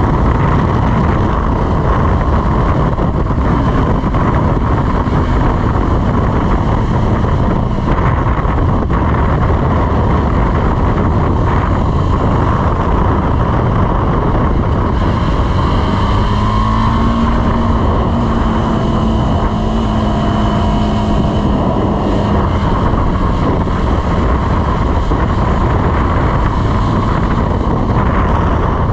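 KTM 390 Adventure's single-cylinder engine running under way, with wind noise on the microphone. Around the middle a clearer engine note comes through for several seconds, then fades back into the wind.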